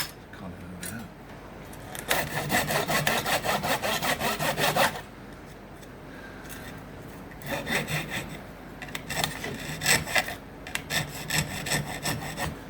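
Hand saw cutting acacia wood with quick back-and-forth strokes, several a second, in two spells: a steady run a couple of seconds in, then a less even run in the second half.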